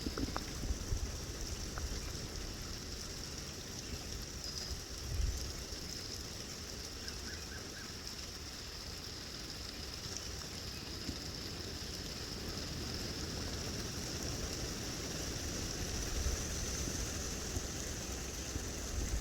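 Gusty wind blowing, with a steady hiss and low rumbling buffets on the microphone, one stronger gust about five seconds in.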